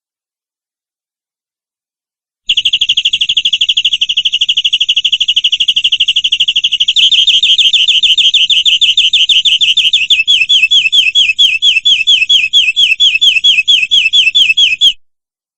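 Domestic canary singing a long, rapid trilled roll of repeated notes, which shifts about halfway into slower, separate down-slurred notes; the song starts and stops abruptly.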